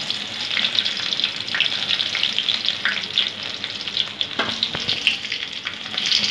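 Chopped ginger and garlic frying in hot oil in a wok, with a steady sizzle and a dense crackle throughout.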